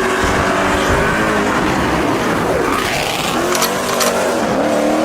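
Mopar muscle car engines revving and accelerating away, the pitch dropping and climbing again twice.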